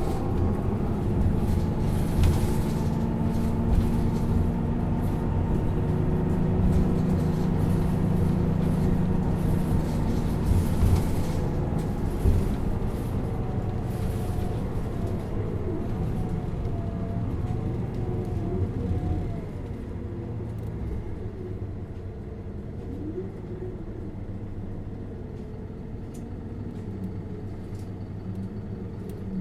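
Isuzu Erga LV290N1 city bus's four-cylinder diesel engine heard from inside the cabin, pulling hard under load. About two thirds of the way through it eases off and the rumble falls quieter.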